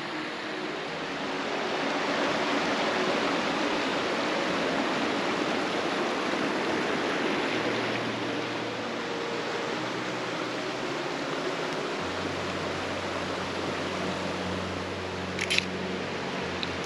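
Steady rush of running water, with a single short click near the end.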